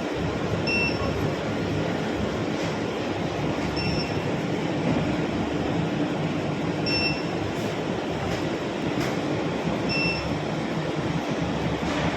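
SuperbMelt SPB-DH2 mini induction melting furnace running with a steady noisy hum, and a short high beep repeating about every three seconds.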